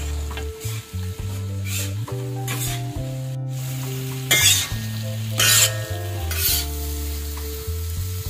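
Sliced onions sizzling on a large flat tawa griddle while a metal spatula scrapes and turns them, with several louder scraping strokes, the strongest about four and a half and five and a half seconds in. Background music with held notes plays underneath.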